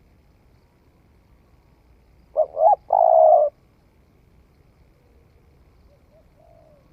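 Spotted dove cooing: two short notes followed by one longer held coo, about two and a half seconds in, then a fainter, softer coo near the end.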